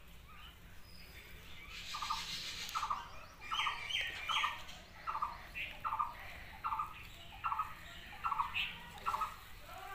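A bird calling over and over, a short note about every three-quarters of a second, starting about two seconds in, with a few higher-pitched calls mixed in early on.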